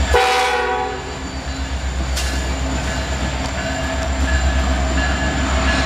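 Union Pacific diesel locomotives passing at close range, a loud steady deep rumble of engines and wheels on rail. Right at the start a short chord of several steady tones sounds for under a second, like a brief blast of the locomotive horn, and a single clank comes about two seconds in.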